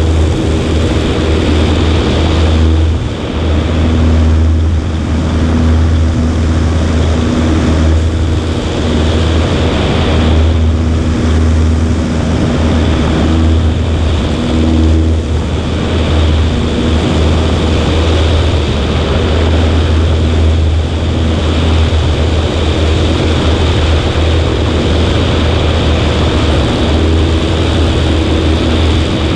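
Cessna 140A in flight: the steady drone of its piston engine and propeller, with air rushing over the microphone.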